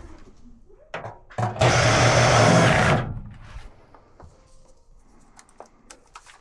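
A small motor-driven tool runs briefly, for about a second and a half, among scattered clicks and knocks of handling.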